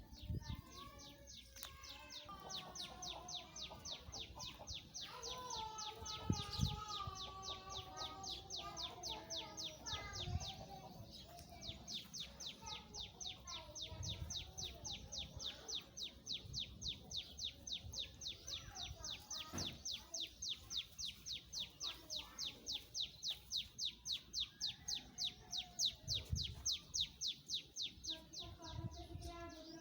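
Birds calling: one bird gives a rapid, steady series of high chirps that runs on without pause, while other birds add lower, wavering calls underneath.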